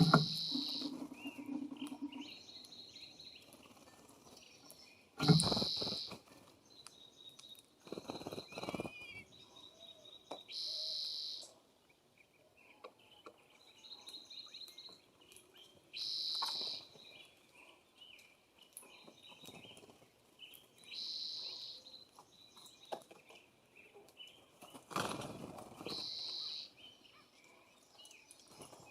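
Wild songbirds calling at a feeder: a short, high note of about a second repeats roughly every five seconds, with softer chirps in between. A few louder rustling thumps break in, the loudest about five seconds in.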